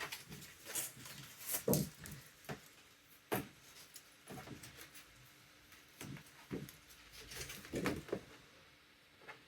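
Irregular small clicks, knocks and rustles of hands handling an embroidered beanie. The sounds come in scattered short strikes and die away near the end.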